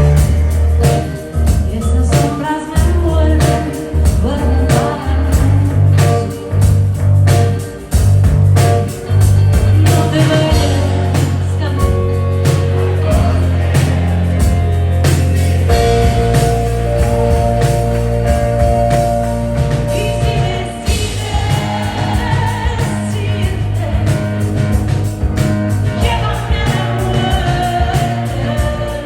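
Live band performing a song with singing over a heavy bass line and drums, with long held keyboard-like tones in the second half.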